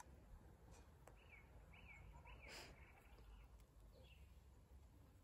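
Faint birdsong over near silence: a small bird repeats short arching chirps about half a second apart, with another chirp near the end. A brief hiss breaks in about midway.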